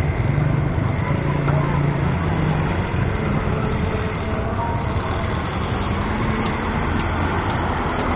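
Busy street ambience: a vehicle engine running steadily nearby, with a crowd's voices faint underneath.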